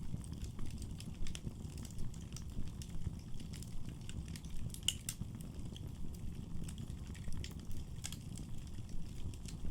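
Wood fire burning in a fireplace: a steady low rumble of the flames with scattered, irregular crackles and pops from the burning wood.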